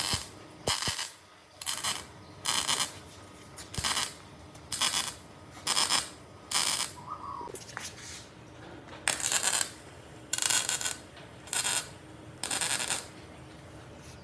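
Rhythmic scraping strokes, roughly one a second and each under half a second long, with a short pause about two-thirds of the way through, typical of a hand tool worked back and forth on metal.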